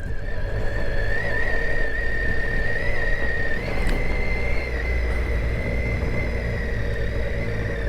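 Triumph Tiger 800's three-cylinder engine running steadily, heard from inside the rider's helmet, with a steady high whine over it. A single brief click comes near the middle.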